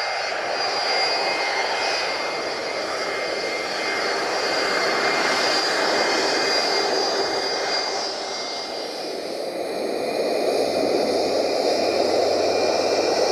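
Jet airliner engines: a broad rushing noise with steady high whining tones, easing off about eight seconds in and building again.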